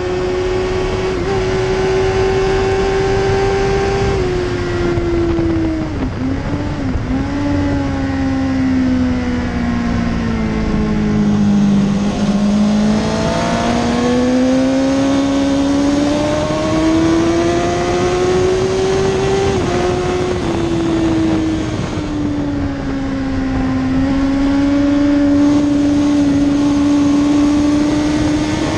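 Suzuki GSX-R1000 K2's inline-four engine at racing speed with heavy wind rush. It holds high revs near top speed, then falls in steps through downshifts under braking from about four to eight seconds in, and bottoms out around twelve seconds. It then climbs again under acceleration, with one upshift about twenty seconds in, and keeps rising toward the end.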